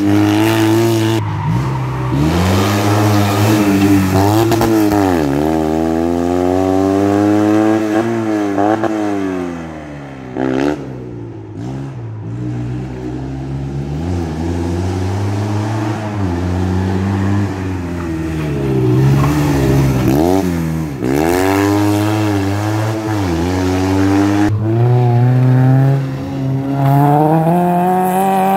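Small hatchback rally cars' engines revving hard round a tight course. The pitch repeatedly climbs and drops as they accelerate, shift and brake for corners. The sound eases off for a moment about ten seconds in, and a car comes up accelerating hard near the end.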